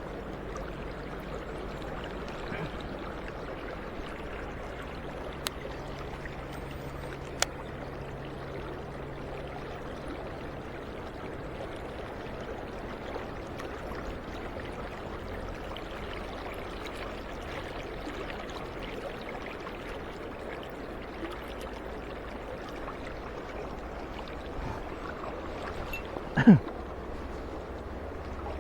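Mountain stream water rushing steadily, with two faint clicks early on and one short, loud sound with a falling pitch about two seconds before the end.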